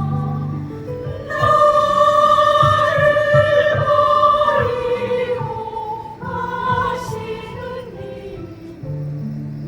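Choir singing in sustained, held notes. A higher, louder part enters about a second in and fades back after a few seconds.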